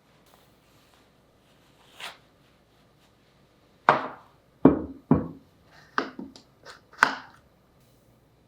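Kitchen clatter: a light knock about two seconds in, then a run of about seven irregular knocks and clunks over the next three seconds.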